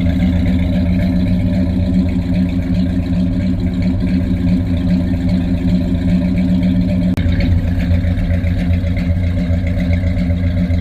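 Ford F100's 390 FE V8, converted to fuel injection, idling steadily just after a cold start. There is a click about seven seconds in, after which the engine note changes slightly.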